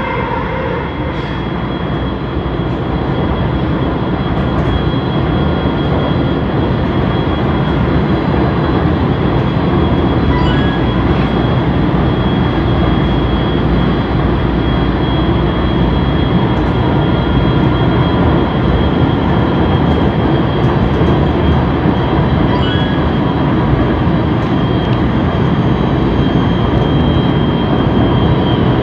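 Light-rail (LRT) train in motion: a steady rumble of wheels on track with a thin high whine over it, growing a little louder in the first few seconds.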